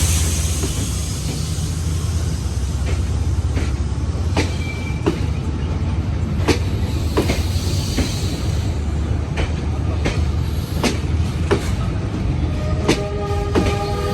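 Diesel-hauled passenger train rolling slowly into a station. The locomotive's low engine rumble is steady, with wheels knocking over rail joints at uneven intervals. A few steady high tones come in near the end.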